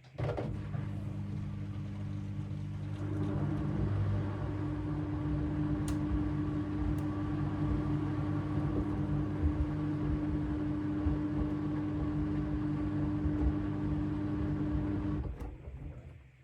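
AEG LR8FL160EX front-loading washing machine drum turning during the wash phase: the motor starts suddenly, a steady hum comes in about three seconds later, and the drum runs for about fifteen seconds before stopping near the end as it pauses before the next turn.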